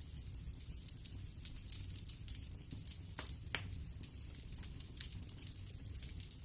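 Fire crackling in a fireplace: scattered small pops and snaps over a low steady rumble, with one louder pop about three and a half seconds in.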